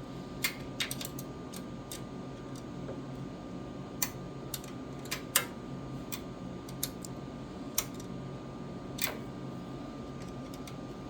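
Scattered sharp metallic clicks and ticks, about a dozen at irregular intervals, as a 4 mm Allen key turns and seats the bolts of a clear valve cover on a Predator 212 engine. A steady low hum runs underneath.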